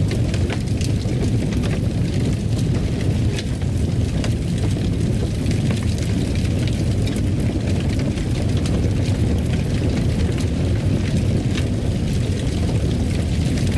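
Fire crackling in a fireplace: irregular sharp crackles and pops over a steady low rumble.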